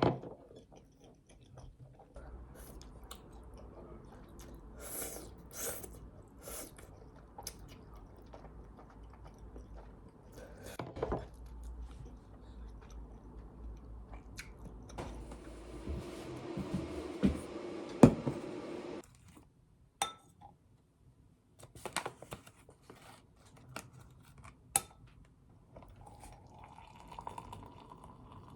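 Someone chewing and crunching food, with scattered clinks and knocks of dishes and cutlery. A steady hiss runs for a few seconds past the middle.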